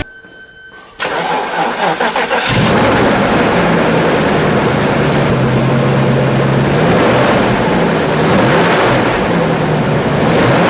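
Mercedes-Benz W124 320TE's M119 V8 being started: the starter cranks for about a second and a half, then the engine catches and settles into a steady, loud idle.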